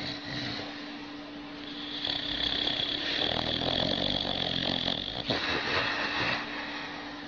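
A sleeping dog snoring: one long snore starting about two seconds in and lasting some three seconds, then a shorter one right after. A faint steady hum runs underneath.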